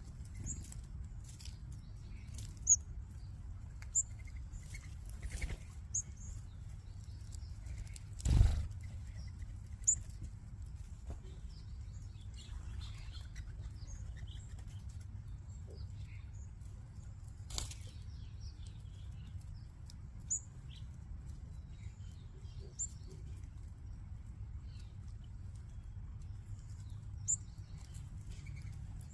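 Small backyard birds chirping now and then, with a few short bursts of wing flutter as birds take off, the loudest about eight seconds in, over a steady low rumble.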